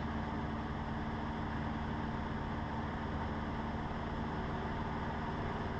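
Cessna 150's four-cylinder Continental O-200 engine and propeller droning steadily at climb power, heard inside the cockpit.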